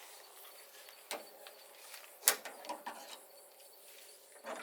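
A few sharp metal clicks and knocks from a pickup's hood latch being worked and released, the loudest a little over two seconds in.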